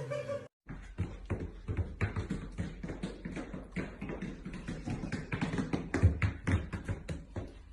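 Rapid, irregular tapping and clicking, several taps a second, over a low steady hum, starting after a brief silence about half a second in.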